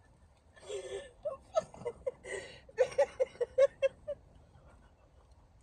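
A woman laughing hard: a quick run of short, high-pitched 'ha' pulses, several a second, that dies away about four seconds in.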